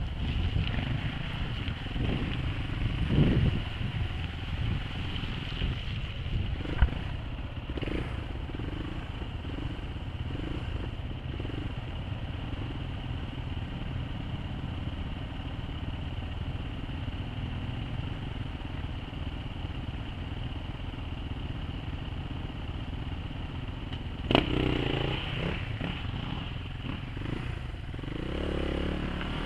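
Suzuki DR350 trail bike's single-cylinder four-stroke engine running steadily at riding pace through mud, heard from the rider's helmet camera, with occasional knocks and clatter from the bike over ruts. The engine gets louder for a moment a few seconds before the end.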